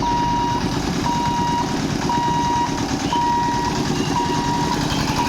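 Electronic warning beeper sounding a steady high beep about once a second, each beep about half a second long, over a loud low rumble.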